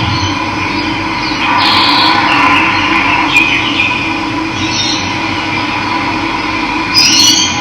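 Steady rush of running water, with birds chirping over it about two seconds in and again briefly near the end.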